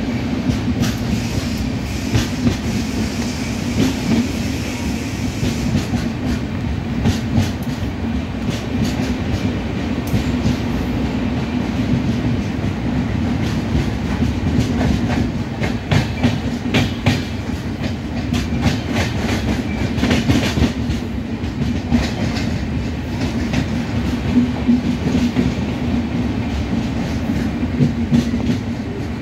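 Indian Railways passenger train running, heard from on board as it leaves the station: a steady rumble with wheels clicking over the rail joints, the clicks thickest about halfway through.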